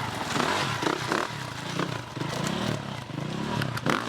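A vehicle engine revving up and down repeatedly, with scraping and clattering mixed in.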